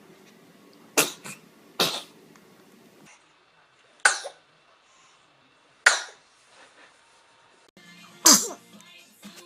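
Babies sneezing: five short, sharp sneezes a second or two apart.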